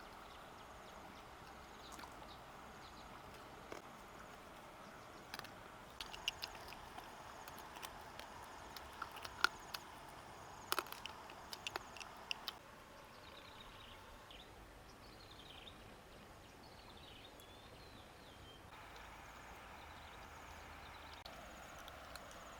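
Outdoor rural ambience: a steady hiss, a run of sharp clicks and taps in the first half, then a few short chirping calls in the middle.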